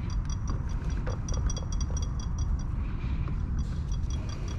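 Rapid metallic clicking of a ratcheting hand tool as a carburetor fastener is run up, in two runs with a pause about halfway through, over a steady low hum.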